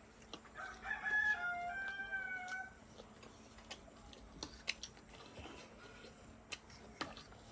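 A rooster crowing once, a call of about two seconds starting just under a second in, followed by scattered sharp clicks.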